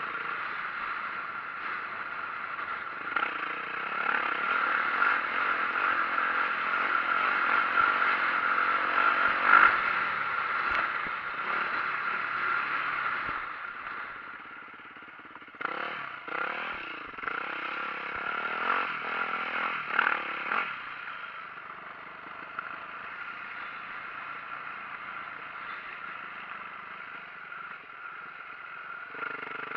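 A 2004 Yamaha YZ450F's four-stroke single-cylinder engine running as the dirt bike is ridden, the throttle rising and falling. It is louder through the first half, eases off about halfway, revs up and down a few times, then runs quieter.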